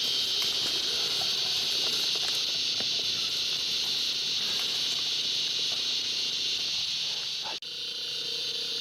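Steady, high-pitched chorus of insects, typical of crickets, with one instant dropout about three-quarters of the way through.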